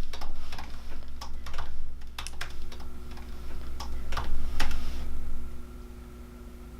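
Computer keyboard being typed on: irregular keystroke clicks that stop about five and a half seconds in, over a steady low hum.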